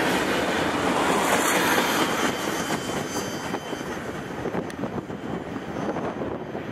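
Empty centerbeam flatcars at the end of a Norfolk Southern freight train rolling past, their wheels clattering on the rails. The sound fades as the rear of the train moves away.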